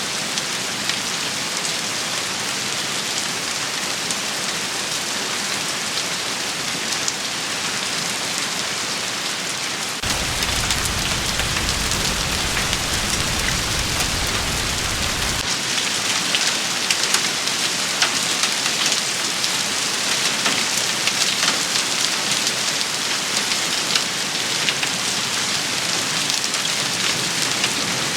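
Heavy rain pattering steadily, dense with sharp drop ticks. About ten seconds in the level steps up and a low rumble joins for about five seconds, starting and stopping abruptly.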